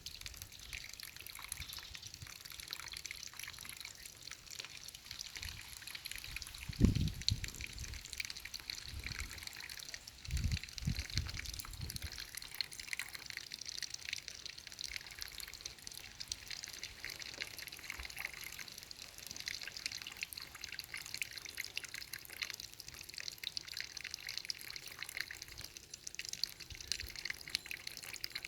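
Steady trickling, dripping water, with a few low thumps about seven seconds in and again around ten to twelve seconds in.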